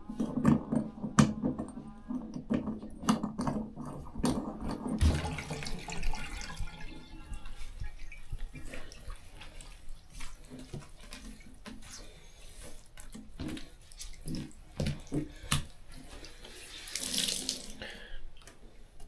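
Water running from a tap, with scattered clinks and knocks throughout and a short hiss near the end.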